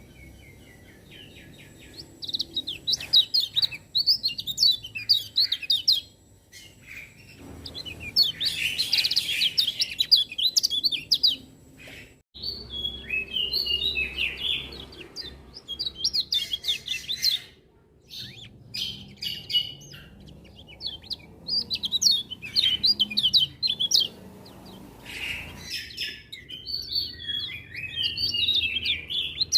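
Kecial kuning white-eye singing: phrases of fast, high twittering chirps lasting a few seconds each, broken by short pauses, starting about two seconds in.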